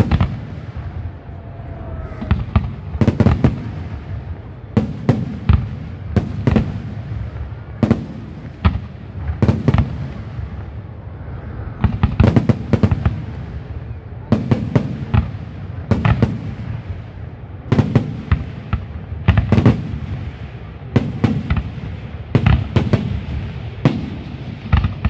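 Aerial firework shells bursting in quick succession: sharp bangs every second or so, often two or three close together, over a continuous low rumble.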